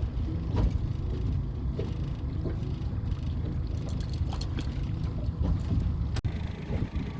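Boat's outboard motor running at low speed: a steady low rumble with a few faint clicks. It drops out for an instant about six seconds in.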